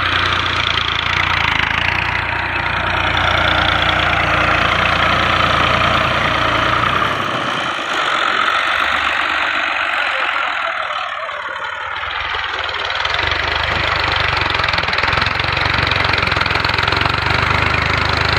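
Tractor diesel engine running steadily. Its low rumble eases off for a few seconds about halfway through, then comes back.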